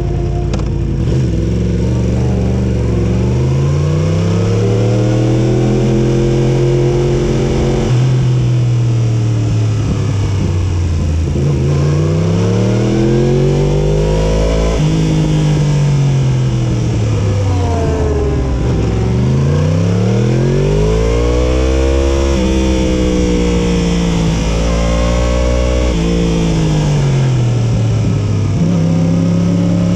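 2018 Yamaha YZF-R1's crossplane inline-four engine at speed. Its pitch climbs as it accelerates and falls away as it slows, over and over.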